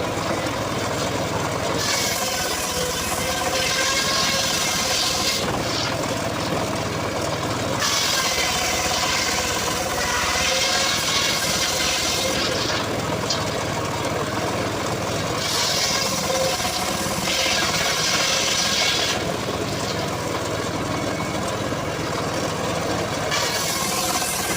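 Engine-driven homemade circular saw bench running steadily while its blade rips through mahogany log. The cutting hiss rises and falls in about four passes of a few seconds each, and the engine keeps running between cuts.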